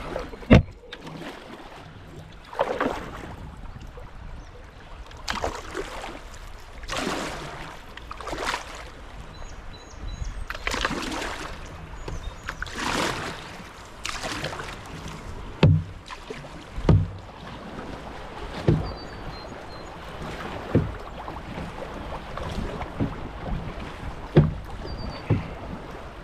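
Canoe paddle strokes splashing through rough water as the canoe runs a small rapid, a whooshing stroke every second or two. From about halfway on come short, sharp, low knocks at irregular intervals.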